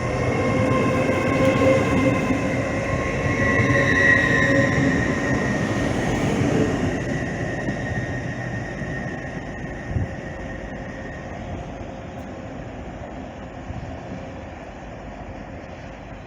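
Class 803 electric multiple unit running through the station: a rumble of wheels on rail with a steady multi-tone electric whine from its traction equipment. The sound fades away over the second half as the train moves off, with a single knock about ten seconds in.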